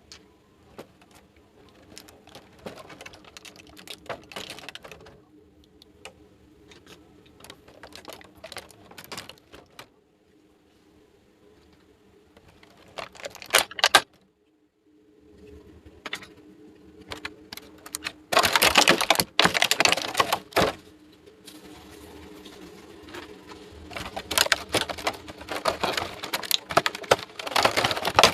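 Small plastic toy pieces and packaging being handled: a run of light clicks and taps, with louder, denser rustling stretches about two-thirds through and again near the end.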